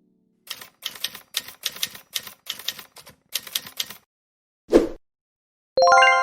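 Typewriter keys clacking in about ten quick bursts of strokes, then a single heavier knock. Near the end a bell-like ding rings out and slowly fades.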